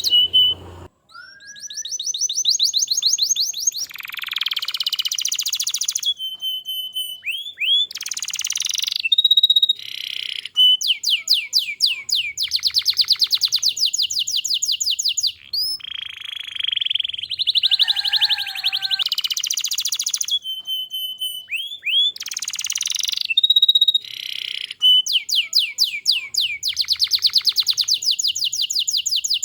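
Domestic canary singing a long, varied song: fast trills of rapidly repeated notes, held whistled notes and short upward-sweeping calls, one after another with hardly a break.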